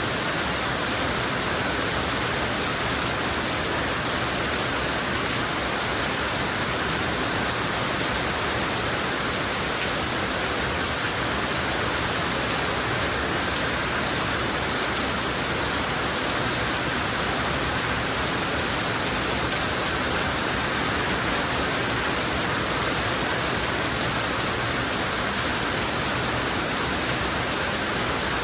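Heavy rain falling steadily, an even hiss of downpour with no letting up.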